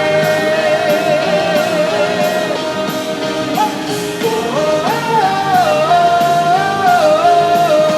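Live rock band playing a pop-rock song with guitars and drums, a lead vocal holding one long note with a slight vibrato, then a melody stepping up and down over the band from about halfway through.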